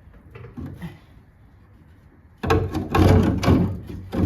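Loud clattering and scraping of metal, with many sharp knocks, starting about two and a half seconds in, as a trolley jack works under a VW Beetle being raised onto jack stands.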